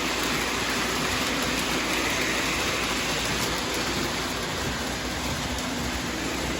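Freight train rolling by, a steady rumble and rushing noise that slowly fades.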